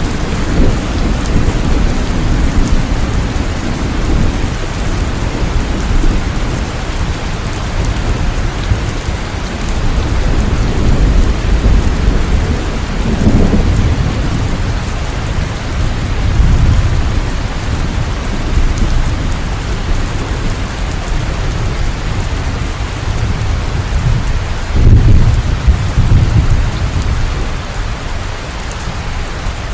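Steady heavy rain falling, with thunder rumbling through it in low swells, the loudest of them starting about 25 seconds in.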